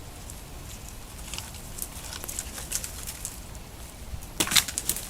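Dry grass being pulled and gathered by hand for kindling: scattered rustles and crackles, with a louder burst of crackling near the end.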